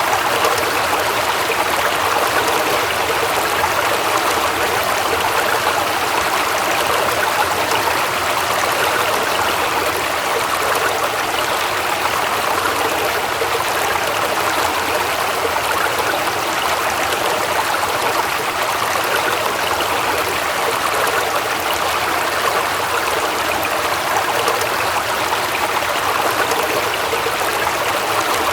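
Waterfall: water falling and rushing in a steady, unbroken flow.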